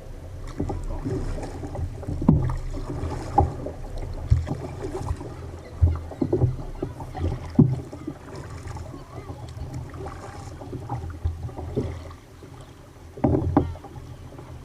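Kayak on a rough sea: water splashing and slapping around the hull, with irregular knocks and a steady low rumble of wind and water.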